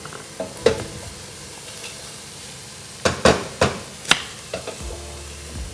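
Chopped onion and leek sizzling in a steel pot while being stirred with a wooden spoon. A few sharp knocks stand out, one near the start and a quick cluster past the middle.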